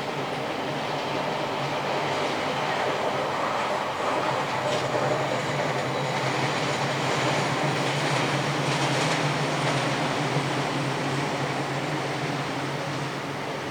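A train passing, a steady rushing rumble with a low hum that builds, is loudest in the middle and eases off near the end.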